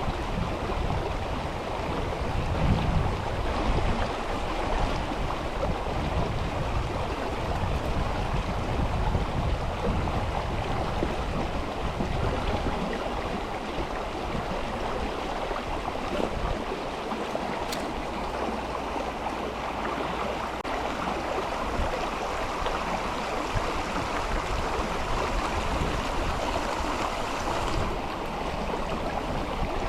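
Mountain river flowing, a steady rushing of water with a low rumble in the first part that eases off about twelve seconds in.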